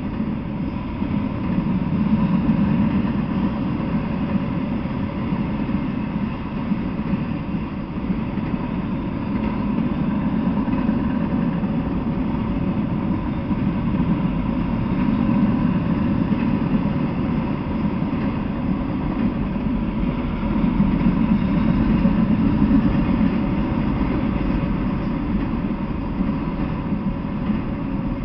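Freight train of autorack cars rolling past, a steady low rumble of steel wheels on rail that swells and eases every several seconds.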